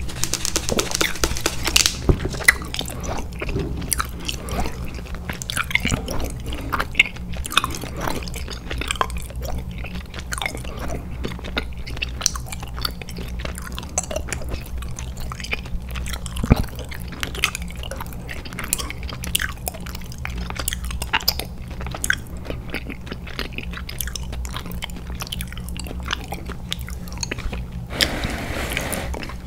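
Close-miked chewing, with many small mouth clicks and crackles. Near the end a brief rustle as a hand reaches to the plastic bucket of candy.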